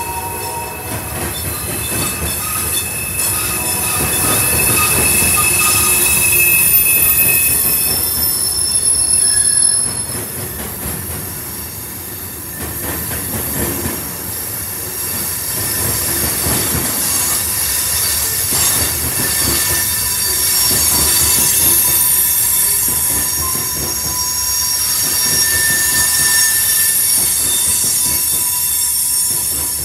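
Freight train of covered hopper cars rolling past close by, with a steady rumble of wheels on rail that swells and eases. Thin high-pitched wheel squeals come and go over the top.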